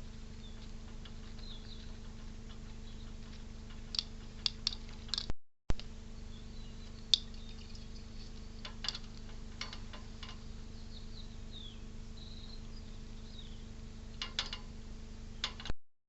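Scattered sharp clicks and taps in small clusters over a steady electrical hum, with faint short high chirps of small birds at a bird feeder. The sound cuts out abruptly twice.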